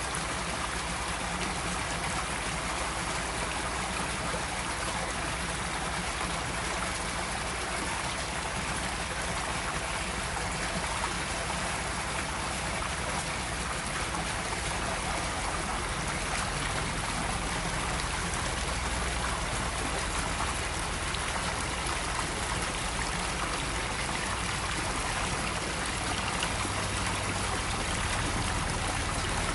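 Water running steadily into an outdoor koi pond, a constant trickling splash with no pauses. A faint low hum joins near the end.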